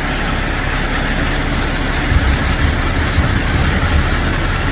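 Heavy truck engine running, a steady loud rumble under a hiss.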